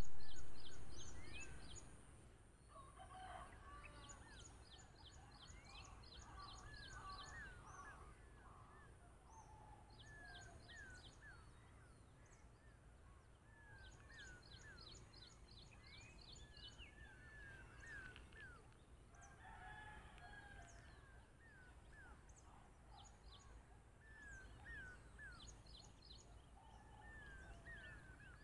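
Outdoor birdsong from several birds: repeated quick, high ticking trills and many short sliding whistled notes, over a steady low background rumble. A loud sound at the very start fades away over about two seconds.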